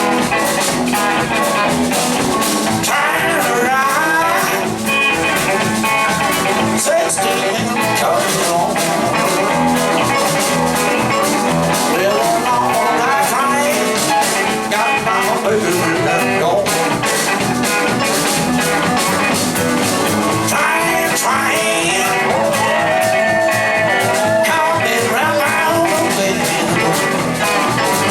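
Blues-rock band playing: electric guitars over drums, bass and keyboards at a steady beat, with bending lead lines.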